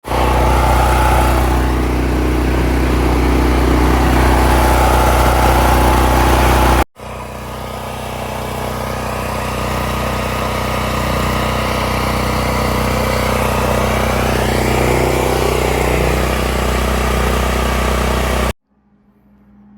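Vehicle engine running steadily and loud, cut off abruptly about seven seconds in, then running again with a slight change in pitch later on, and cut off abruptly near the end.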